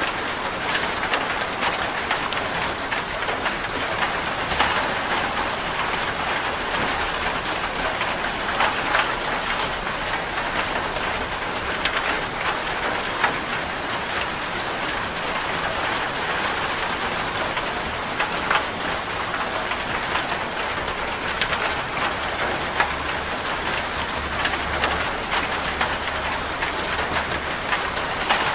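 Steady rain, an even hiss with scattered sharper ticks of drops.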